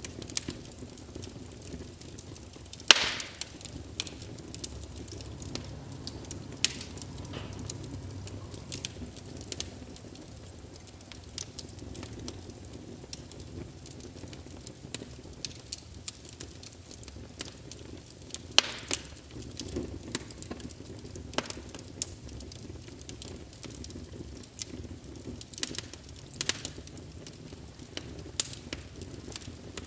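Wood fire in a fireplace crackling, with irregular sharp pops and snaps over a steady low rumble; the loudest pops come about three seconds in and again about two-thirds of the way through.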